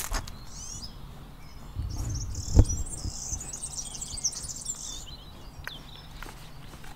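Small birds chirping and singing in quick high trills that fade out after about five seconds. A single dull thump sounds a little over two seconds in.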